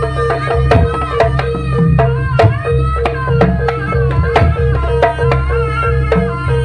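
Jaranan ensemble music: hand drums beating a quick, busy rhythm under a wavering, bending wind melody and a steady held tone.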